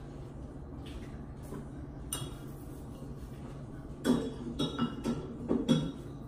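Hard containers and items clinking and knocking together as they are handled and set down: one knock about two seconds in, then a quick run of clinks near the end, over a steady low hum.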